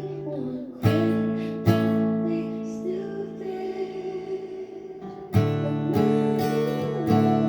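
Acoustic guitar music: two strummed chords ring out about a second apart, then steady strumming comes back in about five seconds in, with a held, wavering sung note over the guitar.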